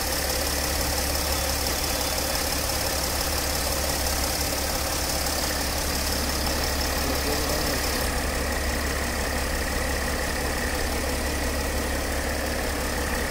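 Mercedes ML 350 CDI's V6 diesel engine idling steadily.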